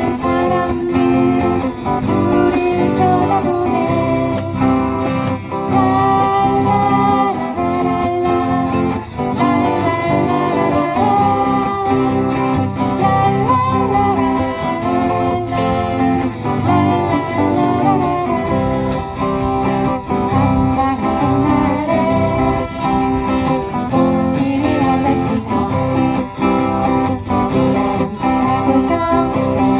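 Acoustic guitars strummed in a steady rhythm, accompanying singing of a Korean folk song medley.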